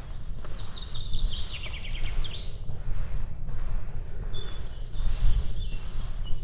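A songbird sings one phrase, a run of quick notes falling in pitch and ending in a sharp flourish. Scattered single chirps follow near the end. A steady low rumble runs underneath.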